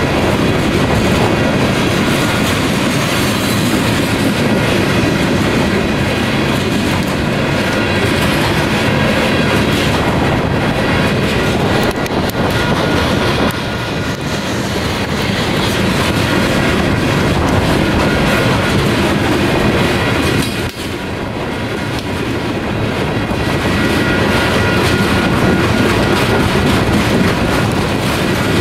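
Loaded coal hopper cars of a Union Pacific coal train rolling steadily past through a grade crossing, wheels clacking and rumbling on the rails, with the crossing bell ringing over it and wind on the microphone. The noise dips briefly twice, about a third and two thirds of the way through.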